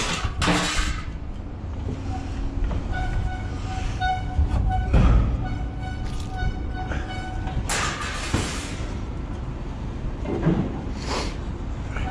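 Scrap metal crashing and clanking as it is dumped, several loud hits, over a steady machine whine that comes and goes.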